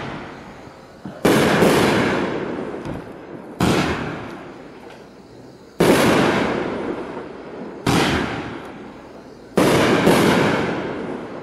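Iron Man Singularity 24-shot fireworks cake firing: about seven sharp bangs, roughly every two seconds and now and then in quick pairs, each dying away over a second or two.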